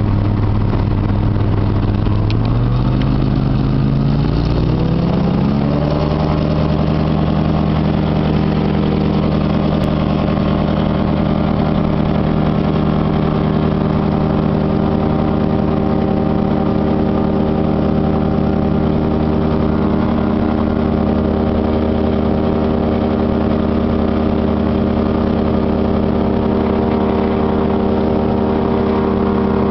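Airplane engine running: it speeds up over a few seconds, then holds a steady drone.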